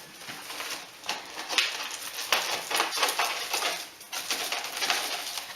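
A 100 mm pipe being worked into an opening in the masonry: irregular scraping and clicking of the pipe rubbing against brick and mortar, with a short lull about four seconds in.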